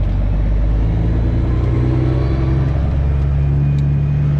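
Semi truck's diesel engine pulling, its pitch rising slowly from about a second in as the truck gathers speed, heard from inside the cab.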